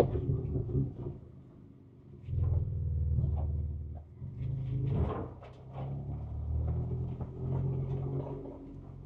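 Ford Ranger Raptor's twin-turbo V6 engine running low and steady, heard from inside the cab. It dips to a lull about two seconds in and then picks up again. Scattered knocks and rattles are heard as the truck moves over rough trail.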